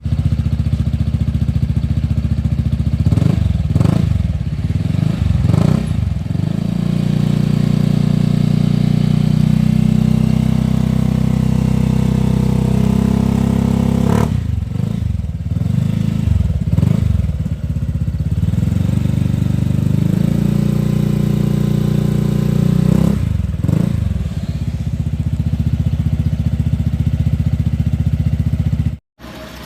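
Honda PCX 160 scooter's single-cylinder engine running through an aftermarket stainless-steel exhaust, idling steadily between groups of quick throttle blips: several revs early on, another burst in the middle, and one more a little later. The sound cuts off abruptly just before the end.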